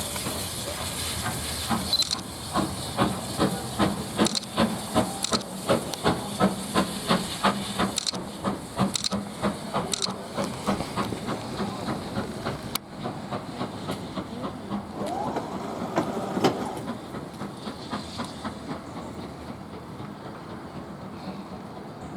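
BR Standard Class 4 2-6-4 tank engine working under steam, its exhaust chuffing in a regular beat of about two to three a second with a steady hiss of steam. The chuffs fade away about halfway through.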